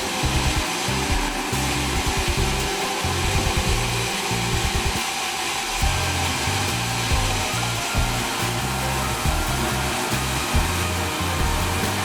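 Sawmill saw running with a steady whirring noise, over background music with a stepping bass line.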